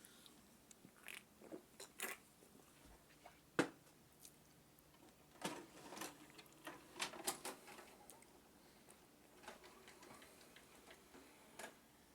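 Faint handling noises: scattered light clicks and knocks, the sharpest about three and a half seconds in and a cluster of them in the middle.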